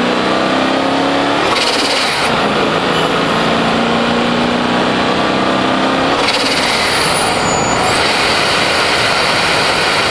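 Supercharged BMW E38 740iL V8 accelerating through its six-speed manual, heard from outside the car's flank with wind rush: engine pitch climbs, breaks at a shift about one and a half seconds in, then climbs again in the next gear. About six seconds in the engine note drops back and steady wind and tyre noise takes over.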